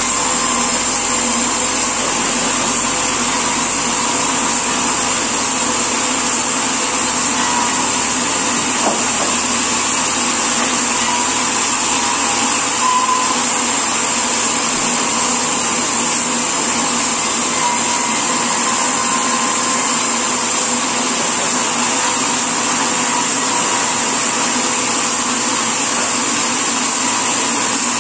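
Sawmill machinery running steadily: a constant high whine over a steady mechanical noise.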